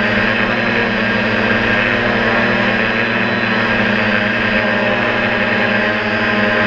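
DJI F450 quadcopter's electric motors and propellers running steadily in flight: a loud, even hum made of several held tones.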